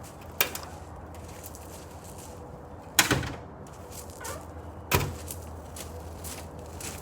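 Three sharp clunks, about half a second, three seconds and five seconds in, the middle one loudest with a short ring after it, over a faint steady hum.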